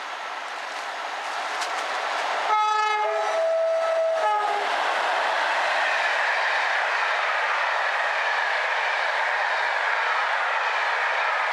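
Train horn sounding two notes, a higher one then a lower one, for about two seconds, then the train running past with a loud steady rush.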